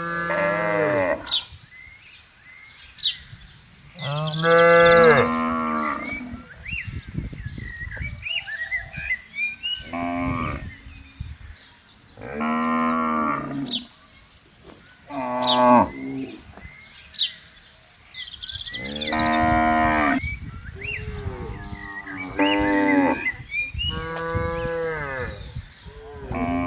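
Cattle mooing, one long call after another, about eight calls in all with short pauses between them.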